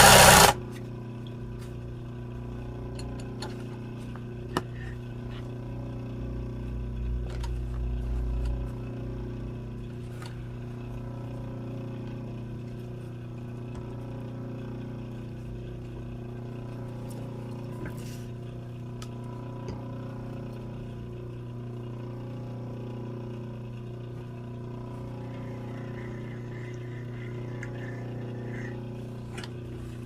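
Steady electric motor hum from an embroidery sewing machine left running between stitching runs, with a few faint light clicks; a short burst of machine running cuts off about half a second in.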